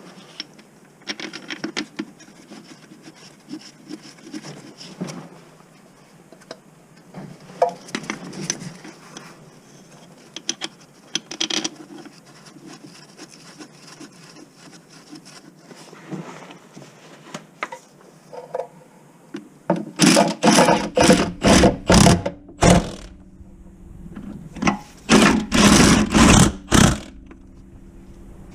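Mechanic's tool work on a van: metal tools clinking and scraping, then a cordless power tool run in a quick series of short bursts, twice.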